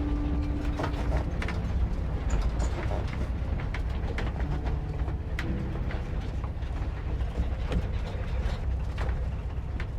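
1950s VW split-window bus on the move: a steady low rumble of engine and road, with frequent rattles, clicks and creaks from the body and fittings.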